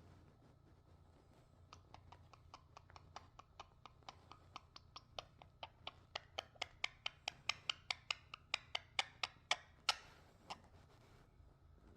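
Rapid run of sharp clicks from a pet parrot, about four or five a second, growing louder, with a couple of stronger single clicks near the end.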